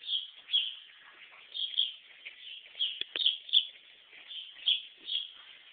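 Small birds chirping: short high chirps, often in quick pairs, repeated every second or so, with one faint knock about three seconds in.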